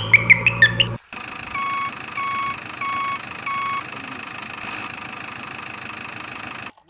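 A vehicle's reversing alarm beeps four times, evenly spaced, over a steady engine noise. It is preceded by about a second of quick, high chirps rising in pitch that stop abruptly.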